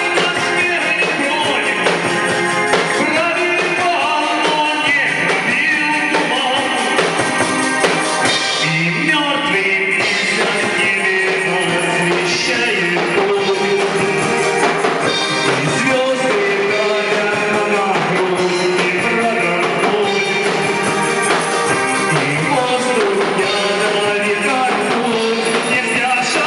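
Rock band music, a steady full-band accompaniment under a moving melody line.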